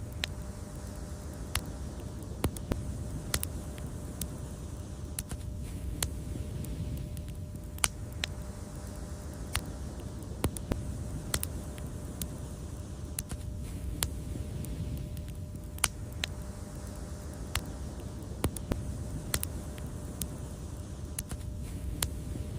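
Wood fire crackling: irregular sharp pops and snaps, about one or two a second, over a steady low rumble of the burning fire.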